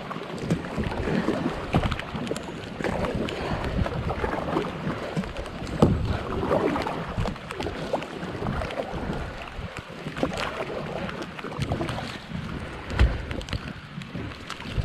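Heavy rain falling on the water and on the kayak: a dense hiss full of sharp drop impacts, with gusts of low rumble from wind on the microphone.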